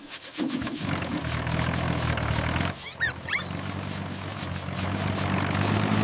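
A steady low mechanical drone of a vehicle engine or rotor sound effect. It breaks off briefly about halfway through, where a few quick rising whistle-like sweeps sound, then carries on.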